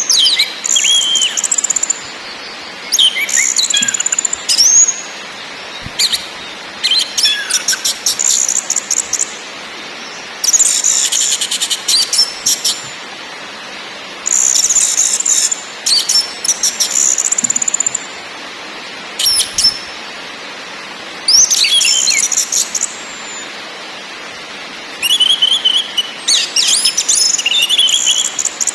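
Orange-headed thrush song: repeated high, rapid song phrases of a second or two each, with short pauses between them filled by a steady hiss.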